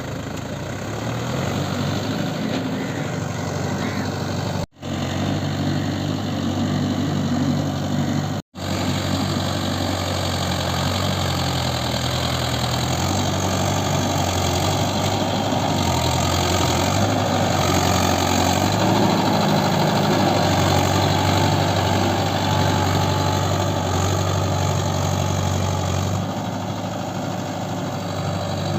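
Mahindra Yuvo 575 tractor's four-cylinder diesel engine running steadily. The sound cuts out for an instant twice in the first several seconds, and the engine gets a little louder and busier around the middle.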